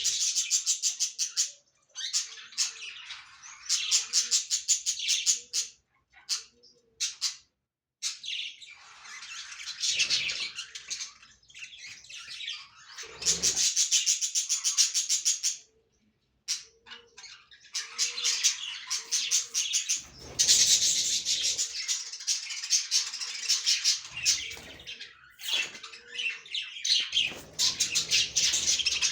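Budgies chirping and chattering, with fast runs of warbling chirps in repeated spells and short pauses between them.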